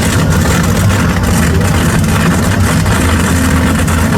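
Monster truck engines running steadily at low revs, a loud, even rumble, as the trucks sit at the start line before a side-by-side race.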